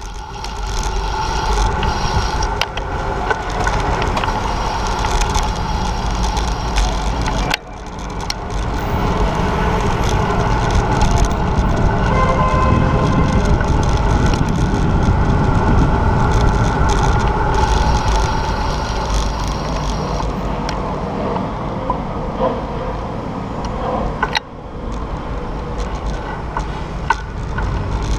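Steady city-street vehicle noise, with running engines, tyre noise and small mechanical clicks and rattles, dipping briefly twice.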